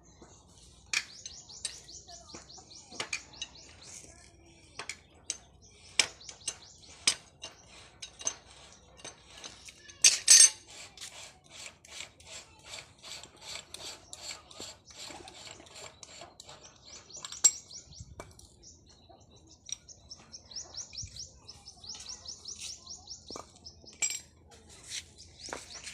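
Irregular metallic clinks and knocks from work on a hand pump, with a loud clatter about ten seconds in and a rapid run of taps after it. A high, fast trill is heard near the start and again near the end.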